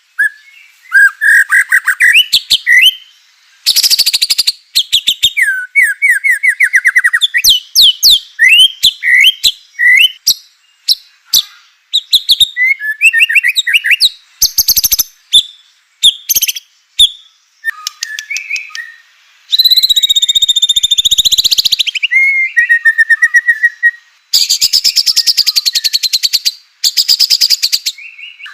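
White-rumped shama (murai batu) singing a long, varied song. Clear whistled phrases that slide up and down alternate with fast rattling trills and several harsh, buzzy bursts. It is the full, aggressive kind of song played to provoke caged shamas into singing.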